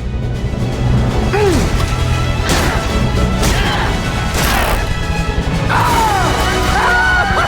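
Film soundtrack music with a run of loud crashes and impacts, about four of them in the first five seconds. From about six seconds in come high, gliding, warbling tones over a steady low rumble.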